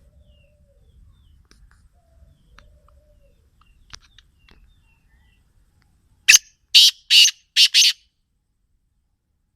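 Black francolin (kala teetar) calling: one loud, harsh call of five grating notes in about a second and a half, coming about six seconds in, after faint scattered chirps.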